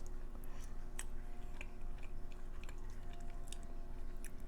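A person chewing soft food close to the microphone: small wet mouth clicks and smacks at irregular moments.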